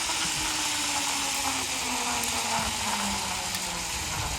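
Zipline trolley whirring along the steel cable over a steady rushing hiss, its pitch falling steadily as it slows.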